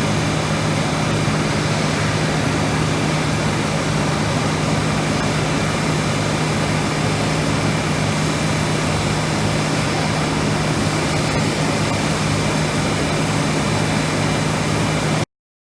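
Schutte 305 Linear CNC tool and cutter grinder running under power: a steady hum with faint high whining tones over it, cutting off suddenly near the end.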